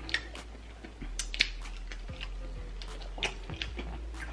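Close-up eating sounds of people chewing saucy chicken wings: wet chewing with a handful of sharp lip smacks and mouth clicks, the loudest about a second and a half in.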